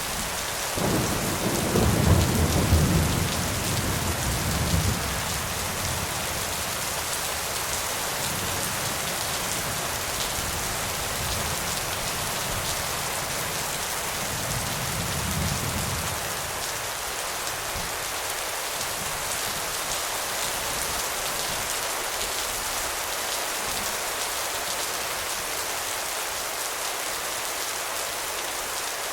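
Steady heavy rain falling, with a deep roll of thunder about a second in that builds and fades over several seconds, and a fainter rumble of thunder about halfway through.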